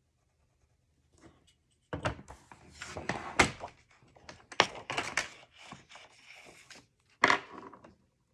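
Cardstock being marked and scored on a paper score board: a run of sharp knocks and scraping strokes as the paper and scoring tool work against the board, starting about two seconds in.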